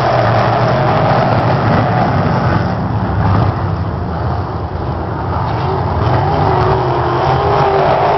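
Sprint car engines running, a steady, dense engine noise that dips for a moment about three and a half seconds in and then builds again.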